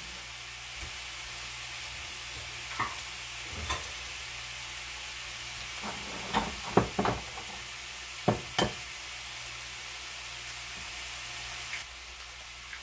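Pork sausage, onion and bell pepper sizzling steadily in a skillet, with a run of sharp knocks about three to nine seconds in as eggs are cracked against a bowl. The sizzle drops away shortly before the end.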